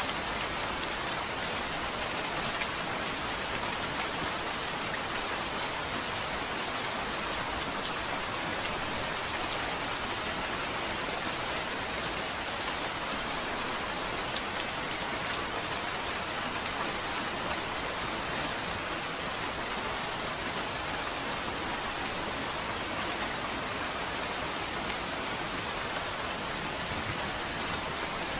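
Steady rain falling, an even hiss of drops with scattered individual drop ticks.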